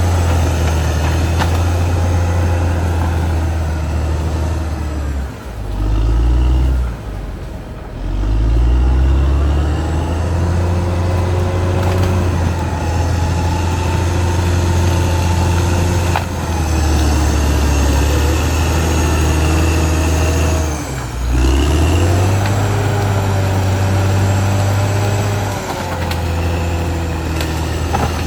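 Caterpillar D6R XL bulldozer's diesel engine working under load, its note dropping and picking back up a few times, with whining tones above it that rise and fall in pitch.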